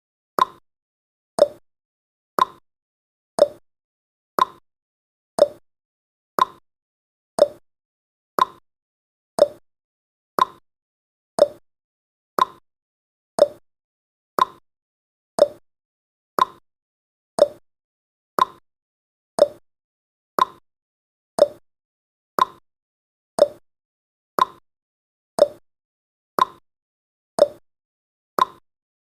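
Countdown timer's ticking sound effect: a short, quickly fading tick once every second, evenly spaced.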